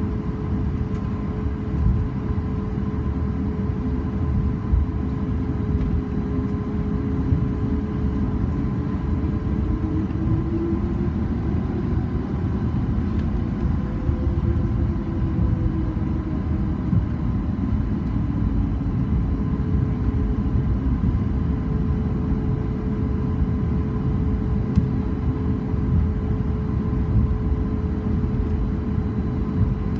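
Cabin noise of a Boeing 737 MAX 8-200 on the ground after landing: a steady rumble with the steady hum of its CFM LEAP-1B engines at low power. About ten seconds in, one hum tone sags and climbs back within a few seconds.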